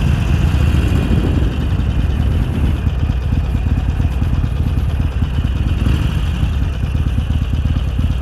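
2017 Harley-Davidson Iron 883's air-cooled V-twin engine running steadily, its sound mostly low-pitched and even in loudness.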